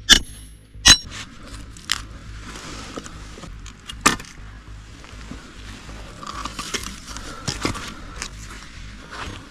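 Metal camping gear clinking and clanking as it is handled: a few sharp strikes with a short bright ring, the first two about a second apart and another about four seconds in, with a soft hiss in between.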